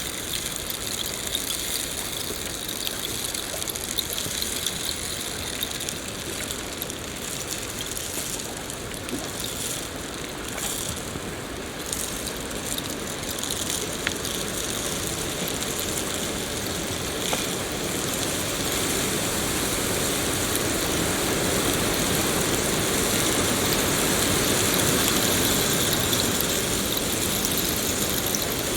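Steady rain falling, a continuous hiss with scattered drop taps, growing a little louder in the second half.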